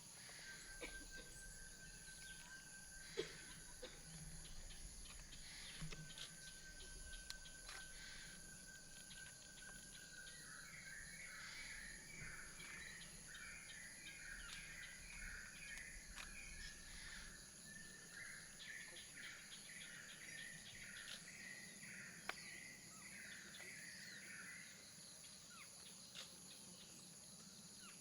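Faint forest ambience: insects keep up a steady high buzz, with a thin steady whistle early on. About ten seconds in, a bird starts calling in a quick run of repeated chirps that goes on until near the end.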